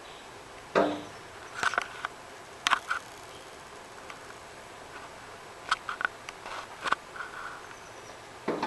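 A bird pecking and tapping with its beak, trying to get in: sharp taps in short irregular clusters with pauses between, the first carrying a duller thump.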